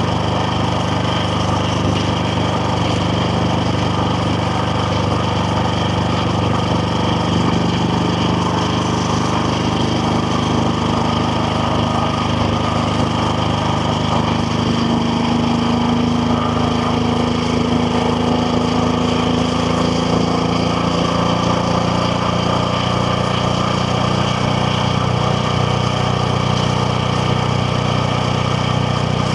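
KTM Duke 690R's single-cylinder engine running at fairly steady revs while the bike is under way. Its pitch rises gently about halfway through, then eases back.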